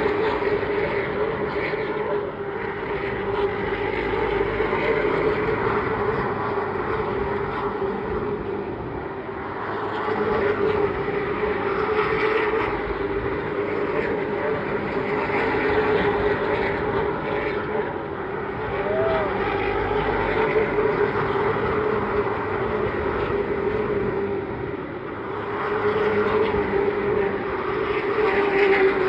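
Pro late model stock cars racing around a short oval, their V8 engines running hard. The sound swells and fades every several seconds as the field goes by.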